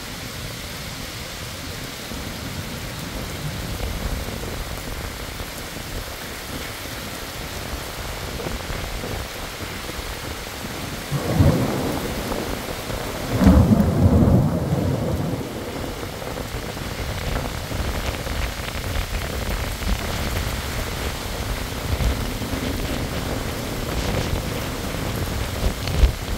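Heavy rain pouring steadily onto pavement in a windy storm, with two loud deep rumbles, a short one about 11 seconds in and a longer one about 13 to 15 seconds in, and a sharp thump just before the end.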